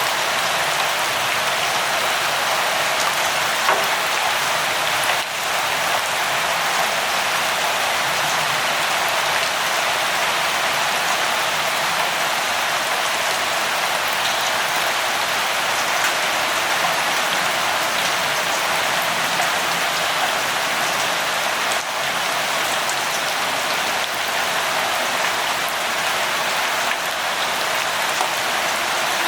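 Steady rain falling on a surface, an even hiss of many drops with faint scattered drip ticks.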